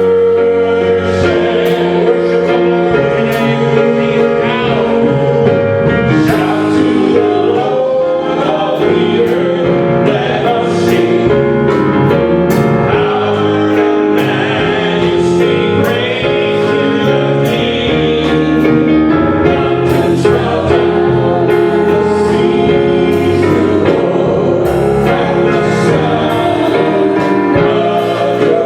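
Gospel song with voices singing together over instrumental accompaniment, played at a steady beat.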